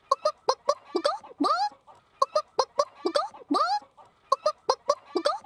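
A human voice imitating a chicken: runs of quick clucks, each ending in a drawn-out bawk that rises and falls in pitch, repeating about every two seconds.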